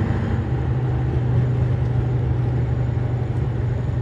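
Scania 142 truck's 14-litre V8 diesel running at a steady pitch under way, heard with road noise.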